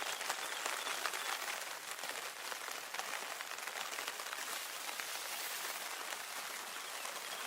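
Rain falling steadily on a surface: a dense patter of drops. It starts abruptly and runs evenly.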